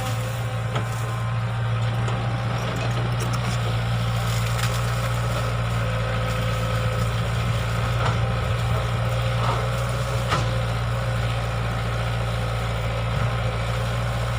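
Excavator's diesel engine running at a steady pace, with a few scattered knocks.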